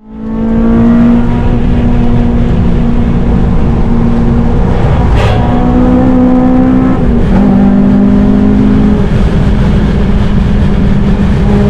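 Modified Honda Civic Type R's four-cylinder engine and Tegiwa cat-back exhaust running hard at high revs on track, the note held nearly steady for seconds at a time with a couple of shifts in pitch. A single sharp knock about five seconds in.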